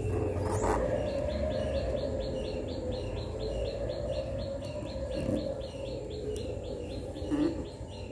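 A bird chirping over and over, short high calls about three a second, over a steady low background hum. Paper rustles briefly near the start and again near the end.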